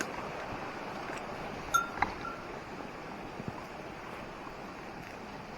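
Mountain stream water rushing steadily. About two seconds in come two sharp clicks, the first with a brief ringing tone.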